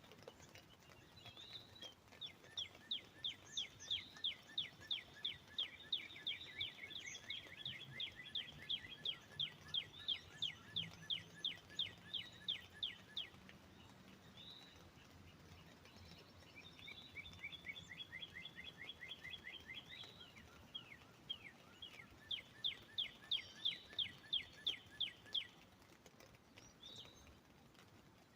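Northern cardinal singing long runs of quick, slurred whistled notes, about three to four a second. After a pause about halfway through it starts a second series that changes pitch partway. A few stray chirps and a faint outdoor hiss sit underneath.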